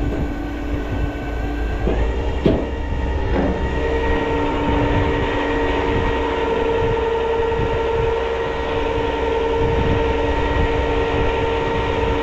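Tow truck's engine and hydraulic pump running under load, a steady mechanical whine that strengthens a few seconds in, with a couple of metal clanks about two seconds in.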